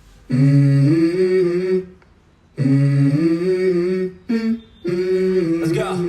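A song played through the Hisense Tornado 2.0 TV's built-in JBL speakers: a voice hums or sings long held notes in phrases of about a second and a half, stepping in pitch, with short pauses between them.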